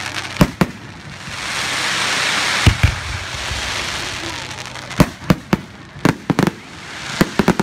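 Aerial fireworks shells bursting in a run of sharp bangs, about a dozen in clusters, with the quickest run between about five and six and a half seconds in, over a steady hiss.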